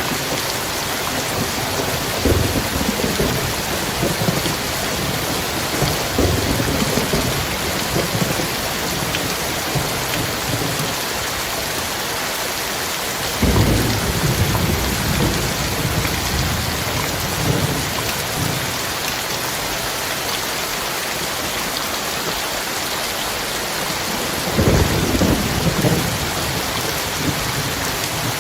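Heavy rain falling in a steady hiss, with thunder rumbling low three times: about two seconds in, near the middle, and near the end.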